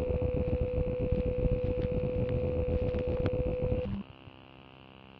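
Transmitter signal: a steady tone over a harsh, rapidly fluttering buzz. It cuts off suddenly about four seconds in, leaving a faint hum and static.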